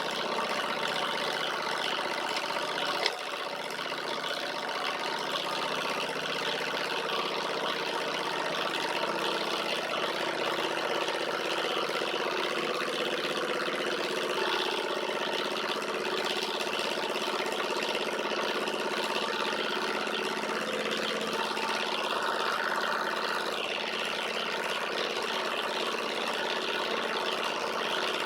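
Alpha-type Stirling engine running steadily while driving a small generator, a constant mechanical whirr with several steady tones. A single sharp click about three seconds in.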